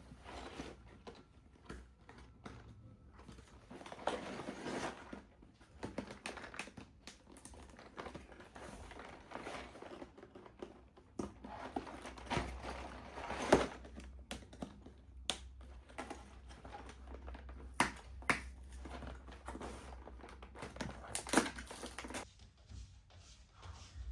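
Packaging being handled: irregular crinkling and rustling with scattered sharp clicks and taps, as a LEGO set box and its wrapping are opened.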